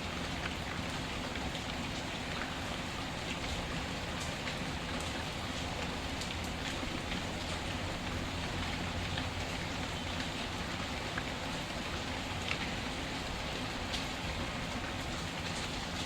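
Steady rain, with scattered sharp crackles and pops of a burning wood fire.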